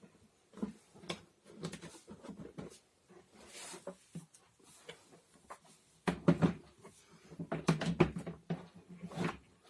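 Plastic parts of a water-filter vacuum cleaner being handled and fitted together: scattered clicks and knocks, busier in the second half.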